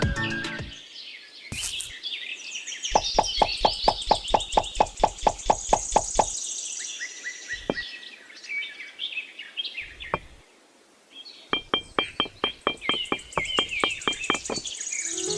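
Two runs of rapid, evenly spaced knocks, about five a second, each lasting around three seconds, the second near the end, with a few single knocks between. Steady bird chirping carries on underneath, and music fades out at the very start.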